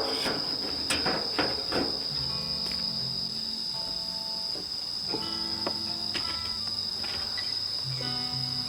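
Crickets trilling steadily and high. There are a few knocks in the first two seconds, and soft background music with held notes comes in about two seconds in.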